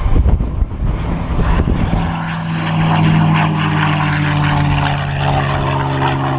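Propeller-driven airplane's piston engine making a steady, loud drone that settles in about two seconds in, after a rough, low rumbling noise.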